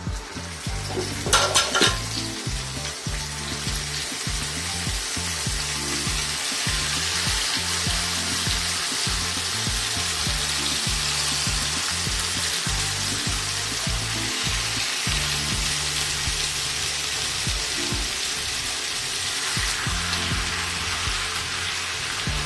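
Chicken pieces searing in very hot olive oil in a pan: a steady, loud sizzle, with a few clatters about a second and a half in as the pieces go in. The high heat seals the chicken.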